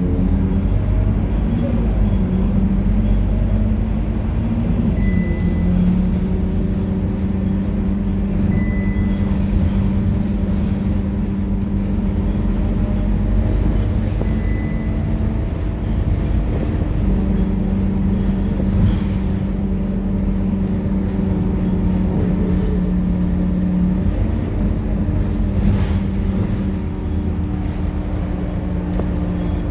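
Scania K230UB single-deck city bus under way, its diesel engine running steadily with the pitch shifting as it changes speed and gear. Three short, high electronic beeps sound about 5, 9 and 15 seconds in.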